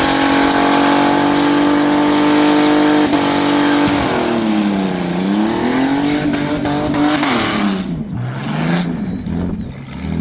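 V8 muscle car engine screaming at high revs during a burnout: held steady for about three seconds, then dropping and climbing back, and falling away near the end as the driver comes off the throttle.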